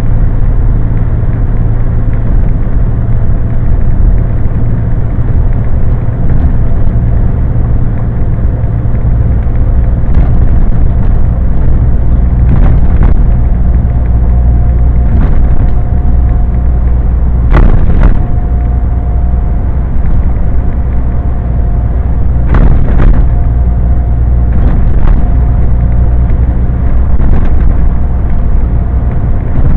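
Scania truck on the move, heard from inside the cab: a loud, steady low rumble of engine and road. A faint steady whine comes in a little before halfway, and there are a few sharp knocks in the second half.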